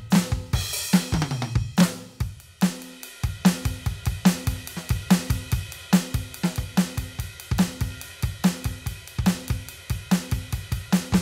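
Drum groove played on a Roland TD-17KVX electronic drum kit through its sound module: kick, snare, hi-hat and cymbals in a steady beat. About a second in there is a tom fill that falls in pitch.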